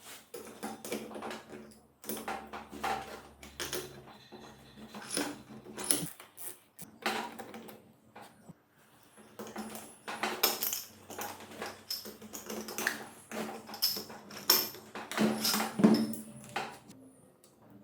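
Irregular clinks, knocks and clatters of metal tools and engine parts being handled and set down, in quick uneven runs with short pauses.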